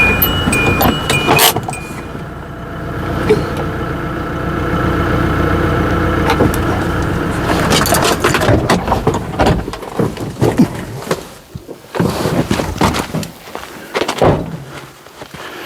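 A repeating electronic chime cuts off with a sharp knock about a second and a half in. A steady low engine hum follows. In the second half come irregular knocks and clatters.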